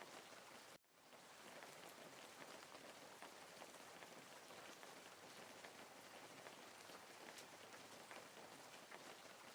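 Faint, steady rain falling, with many small drops. About a second in, it cuts out abruptly and fades back in within half a second, like a seam where a rain recording loops.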